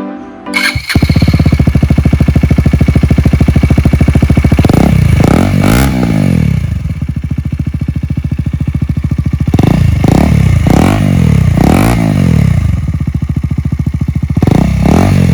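KTM Duke 250 single-cylinder engine running with the exhaust removed entirely, so it fires straight out of the open header with a loud, fast pulsing beat. The throttle is blipped in short bursts, in three groups: about five seconds in, around ten to twelve seconds, and near the end.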